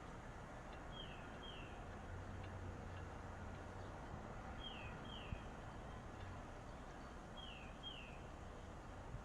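A bird calling: a pair of short, high, falling chirps repeated about every three seconds, over faint steady background noise.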